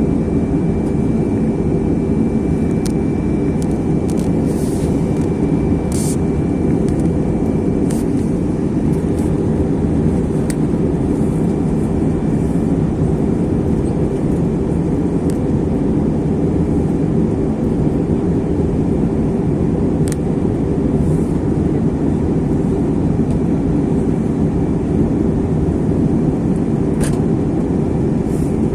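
Airbus A321 cabin noise on the approach to landing: the steady, even drone of the jet engines and airflow over the fuselage, heard from inside the cabin. A faint high steady tone runs through the first dozen seconds, and a few light clicks come now and then.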